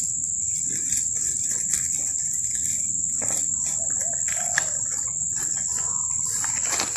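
Steady, high-pitched insect drone held without a break, with faint scattered ticks beneath it.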